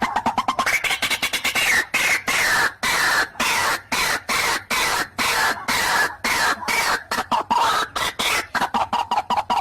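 White-breasted waterhen (ruak-ruak) calling: a fast, unbroken run of short, harsh repeated notes, several a second. This is the territorial call used to lure rival waterhens.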